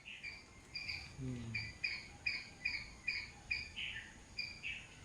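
A bird chirping over and over, short high notes coming two or three a second.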